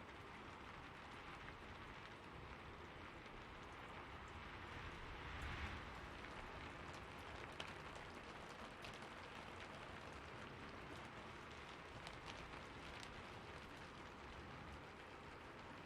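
Steady, faint rain falling, with a few light drop ticks and a brief swell about five and a half seconds in.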